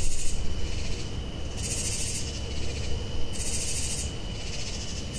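Unidentified night birds calling back and forth, a low cooing call among them, over a high insect chorus that swells and fades about every two seconds.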